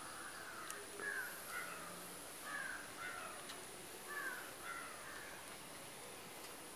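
A bird calling outdoors: three pairs of short calls, each falling in pitch, spaced about a second or more apart. A faint, steady high-pitched whine runs underneath.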